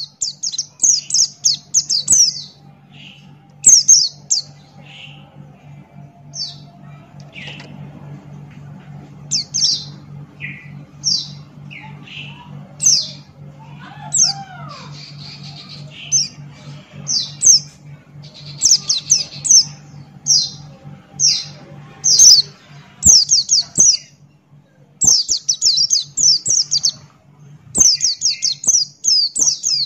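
White-eye (pleci buxtoni) singing hard in quick runs of high, sharp chirps, phrases bunched together with short pauses between them. A steady low hum runs underneath.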